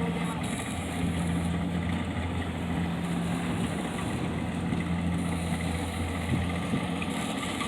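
Tractor engine running steadily, a low even hum.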